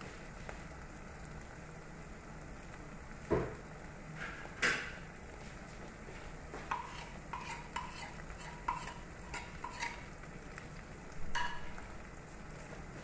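Spoon stirring spice masala frying in a pan: a low, steady sizzle with two sharp knocks, then a run of short ringing clinks of the spoon against the pan.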